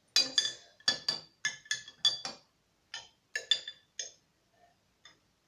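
A metal spoon clinking against a dish in a quick run of sharp, ringing taps over the first four seconds, then a few faint scattered ones.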